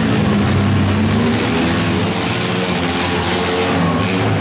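Engines of several demolition-derby minivans running and revving together in a loud, steady din.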